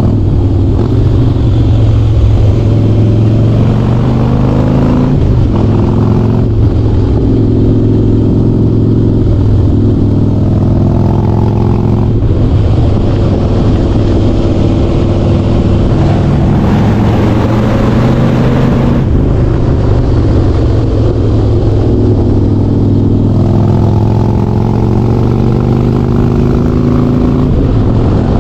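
Harley-Davidson Softail Standard's V-twin running through a Vance & Hines Big Radius exhaust while riding. Its loud, low note climbs in pitch under acceleration and drops back at each gear change, several times over.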